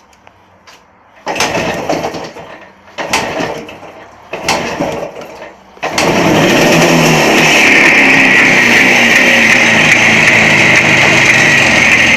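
Jawa 360 two-stroke twin motorcycle engine being started: it fires briefly and dies three times, then catches about six seconds in and keeps running steadily. Its running is the strange behaviour the owner is showing.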